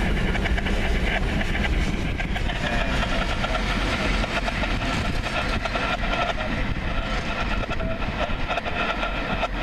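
Freight train of open-top steel hopper cars rolling past, its wheels clicking steadily over the rail joints with a continuous rumble. High squealing tones from the steel wheels come and go above it.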